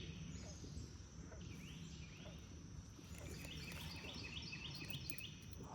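Quiet outdoor ambience with a low steady rumble and a high, rapidly repeated chirping call from a small animal, about five notes a second, in one run about three seconds in.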